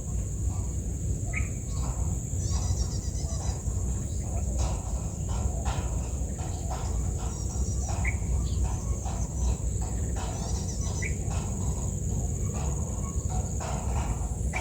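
Outdoor summer ambience: a steady high-pitched insect drone, like crickets, with a few short bird chirps, over a constant low rumble.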